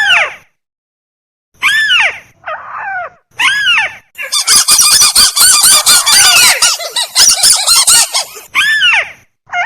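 Recorded calls of the tikusan, a crake, played as a bird lure. A few separate calls rise and fall in pitch, then about four seconds of rapid overlapping chatter come about four seconds in, followed by single calls again near the end.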